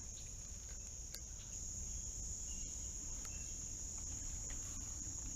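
Insects chirring in a steady, unbroken high-pitched drone that grows a little louder about a second and a half in, over a low outdoor rumble with a few faint clicks.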